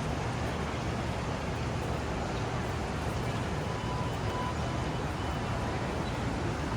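Steady running noise of a Taiwan High Speed Rail train, an even low rumble and hiss, with a faint brief tone about four seconds in.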